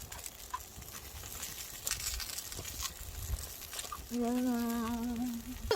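Faint scattered crackles and clicks, then about four seconds in a woman's steady hummed 'mmm' held for just over a second.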